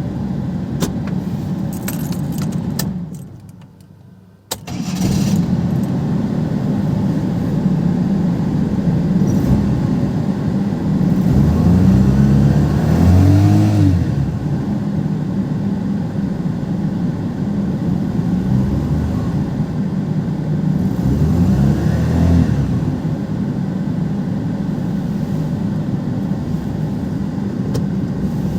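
Perodua Kenari engine running steadily. It drops out about four seconds in and comes back abruptly, then is revved up and back down twice. The car shows a check engine light when accelerating.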